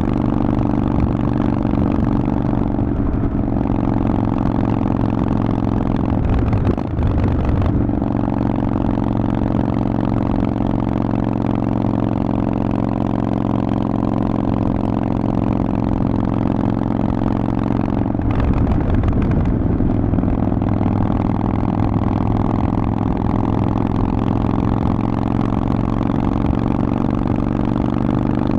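Harley-Davidson Forty-Eight's air-cooled 1200 cc V-twin running through a Vance & Hines exhaust under way at a steady pace. The engine note breaks briefly twice, about a quarter of the way in with a short dip in level and again about two-thirds in.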